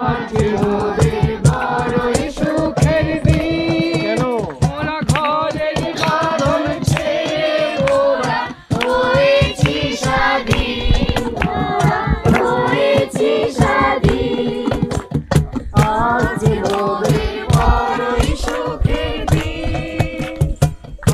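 A group of voices singing together in chorus, over a steady percussive beat.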